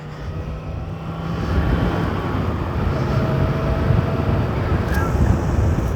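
Yamaha MT-10 motorcycle's inline-four engine running as the bike rides, mixed with wind rush, getting louder over the first second or two and then holding steady.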